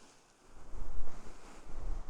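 Knit cardigan fabric pressed against and rubbed over binaural microphone ears, making a muffled, rumbling rustle. The sound cuts out almost completely for a moment near the start, then the rubbing resumes.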